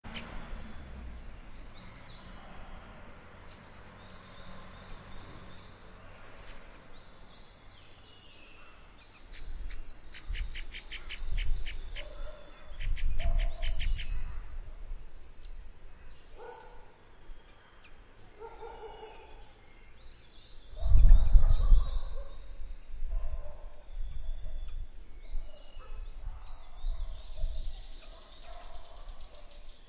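Several forest birds singing and calling, with short high chirps and whistles throughout. A fast, rattling run of sharp repeated notes comes twice, about a third of the way in. Deep low rumbles come in gusts, the loudest a little past two-thirds of the way in.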